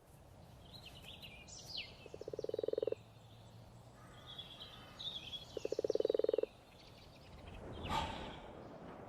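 Frogs calling at a pond: two rapid, pulsing, low croaking trills about three and a half seconds apart, each lasting under a second. Scattered higher chirping calls sound between them.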